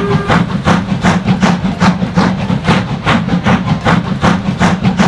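Train sound effect: a quick, regular chugging of about three beats a second over a steady low rumble.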